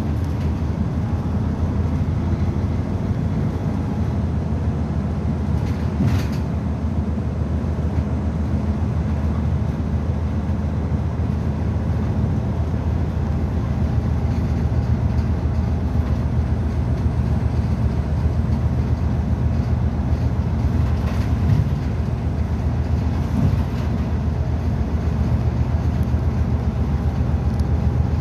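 A city route bus's engine and drivetrain running steadily while under way, heard from inside the cabin as a low, even drone, with a couple of brief clicks, one about six seconds in and one about twenty-one seconds in.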